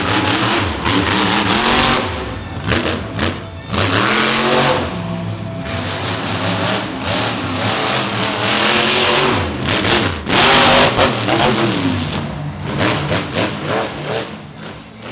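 Monster truck engine revving hard, its pitch climbing and falling several times, with loud surges of throttle, and music playing underneath.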